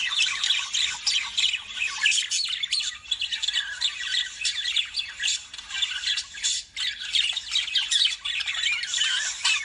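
Lovebirds chattering and squawking, many short shrill calls overlapping without a break, with a brief lull about two-thirds of the way through.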